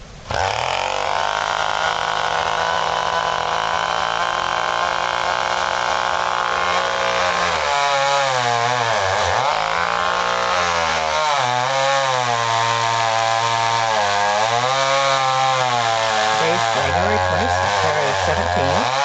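Chainsaw running at high speed, starting abruptly and holding a steady pitch at first. From about eight seconds in, its pitch repeatedly dips and recovers as the chain bogs under load in the cut.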